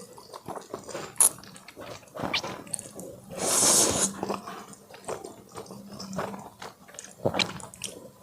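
Close-miked eating sounds: a person chewing and biting food, with many small mouth clicks, a sharp click about a second in and a longer noisy burst a little after the middle.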